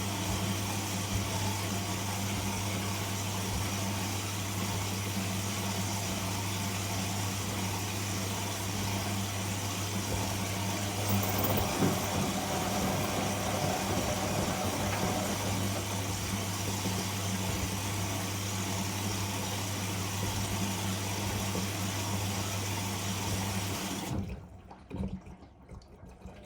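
Whirlpool Indiana 1400 washing machine running mid-cycle: a steady low hum over a noise of moving water. About 24 seconds in, the hum and water noise stop almost at once, leaving it nearly quiet for a couple of seconds.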